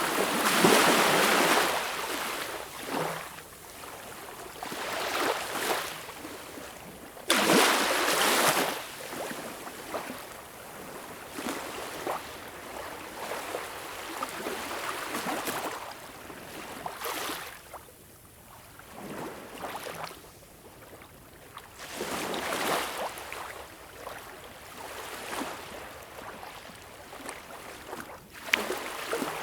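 Small, calm sea waves lapping and breaking on a beach. Each wash rises and falls over a second or two, at irregular intervals. The biggest come right at the start and about seven seconds in, with softer ones after.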